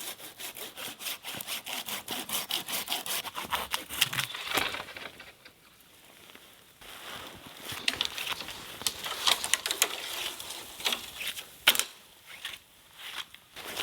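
Hand saw cutting through a dead standing tree, in steady back-and-forth strokes that stop about four and a half seconds in. After a short lull come scattered cracks and knocks of wood, the sharpest a little before the end.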